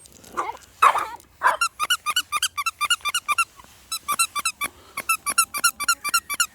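A dog gives a few whines, then a fast run of short, high-pitched squeaks follows at about five a second, with a brief pause a little past the middle.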